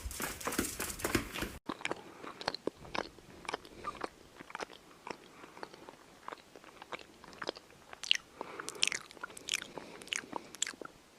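A dog crunching and chewing something hard: sharp, irregular crunches, several a second. A louder, denser stretch cuts off suddenly about a second and a half in.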